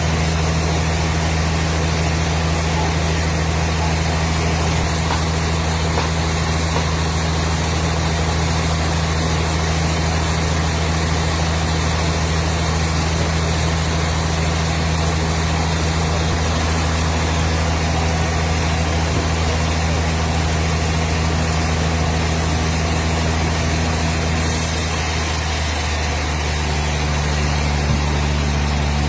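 A motor or engine running steadily with a low hum, its pitch shifting slightly about 26 seconds in.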